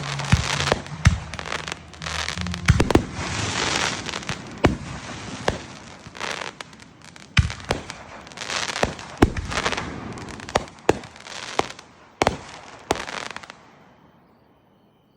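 Fireworks going off: a rapid, irregular run of sharp bangs over a dense crackle, dying away near the end.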